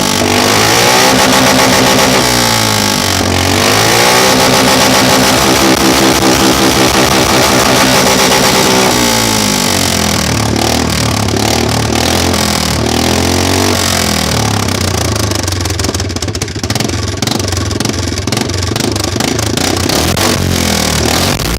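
Quad bike engine running through an open, unsilenced exhaust, revving up and back down several times. The pitch climbs about two seconds in and holds high, drops near nine seconds, climbs again, then settles lower and rougher toward the end.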